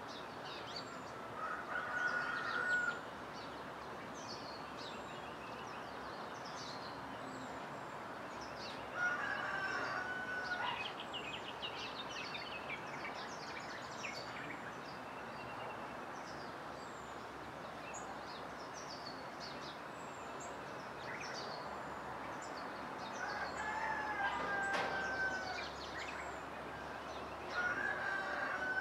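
Birds calling at dawn: many short, high chirps throughout over a steady background hiss, with a louder, longer call coming four times, each lasting about a second.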